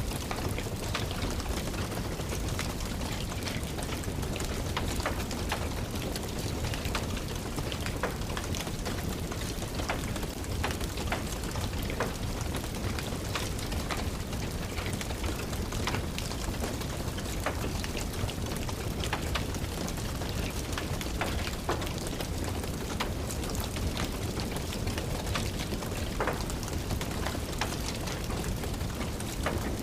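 Steady rain with many scattered sharp crackles and pops of a wood fire burning in a fireplace.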